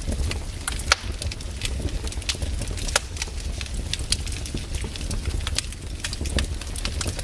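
Wood campfire burning, with irregular sharp crackles and pops over a low steady rumble, a few louder snaps among them.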